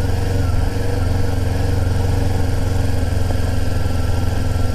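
Sport bike engine running steadily at a low, even pitch, with no revving.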